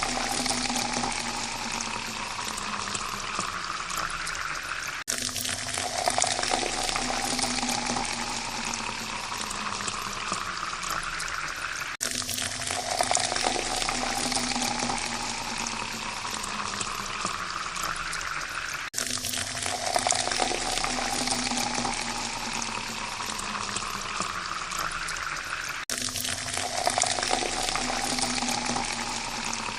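Water pouring into a glass, the ringing tone of the pour rising in pitch as the glass fills. Each pour lasts about seven seconds, then cuts off sharply and a new one starts, four times in a row.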